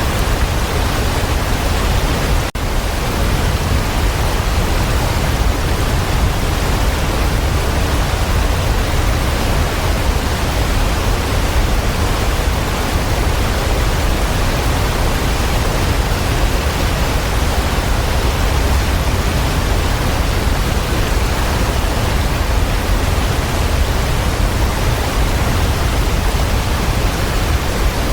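Waterfall: a steady, dense rush of falling water with its weight in the low end, with one momentary break about two and a half seconds in.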